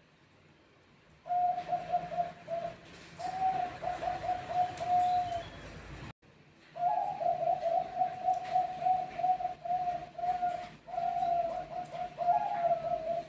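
Zebra doves (Bangkok perkutut) cooing in rhythmic strings of short, bubbling notes. The cooing starts about a second in, breaks off suddenly around six seconds, then resumes in a longer unbroken series.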